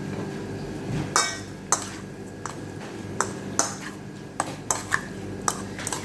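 Utensil clinking against a dish, a string of about nine irregular sharp clinks over a low steady hum, as sliced chicken is mixed with its marinade.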